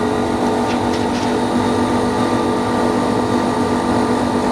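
Steady electric machine hum, a constant low drone with fixed tones. A couple of faint light crackles come about a second in.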